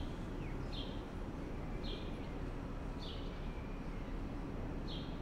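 A bird repeating a short, high chirp about once a second over a steady low background hum.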